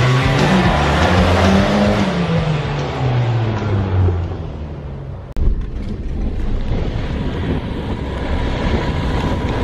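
Car engine revving, its pitch rising and then falling over several seconds. After an abrupt cut about five seconds in, a steady low rumble of the car driving follows.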